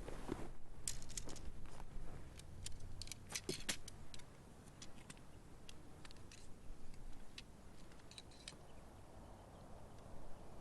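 Backpacking tent being set up: scattered light clicks and jingling rattles of tent poles and stakes being handled, busiest in the first few seconds.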